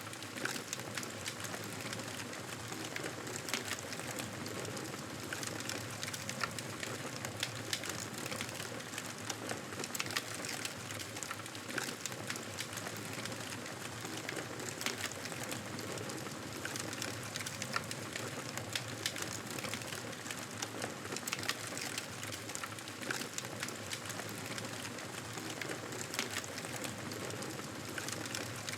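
Wood fire crackling steadily, with a constant soft hiss and frequent sharp pops and snaps scattered irregularly throughout.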